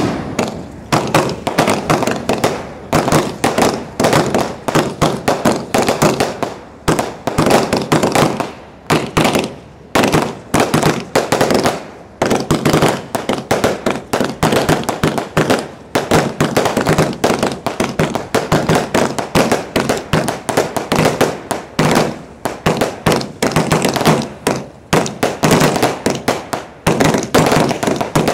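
Fireworks going off in a rapid, continuous barrage, heard up close from the firing barge: a dense run of sharp bangs and booms, several a second with hardly a pause.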